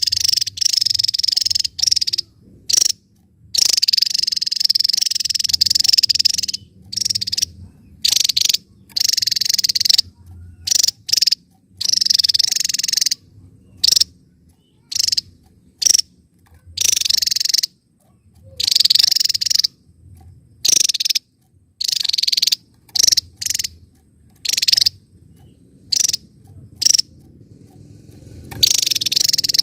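Javan tesia singing: a series of high-pitched song phrases, each from a fraction of a second to about two seconds long, separated by short pauses.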